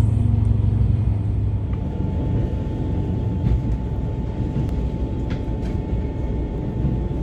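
Steady running rumble of the Setsugekka diesel railcar, heard from inside the carriage. The low engine hum eases off a little under two seconds in, leaving the rumble with a faint steady tone over it and a few light ticks.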